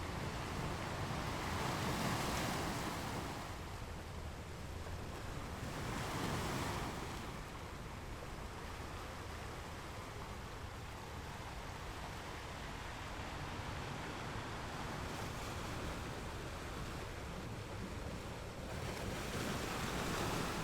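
Ocean waves washing ashore, a steady rush of surf that swells with breaking waves about two seconds in, around six seconds and near the end.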